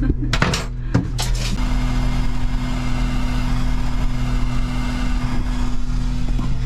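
A few knocks of handling, then a handheld hot-air blower runs with a steady rush of air from about a second and a half in. It is heating a toilet hose so it will slip off its fitting. A steady low hum sits underneath.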